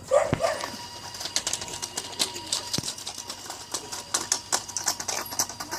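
Radio-controlled model D11 bulldozer working: rapid, irregular clicking and rattling over a faint steady whine.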